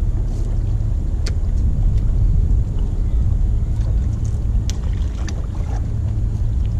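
Wind buffeting the microphone: a steady low rumble, with a few faint sharp clicks.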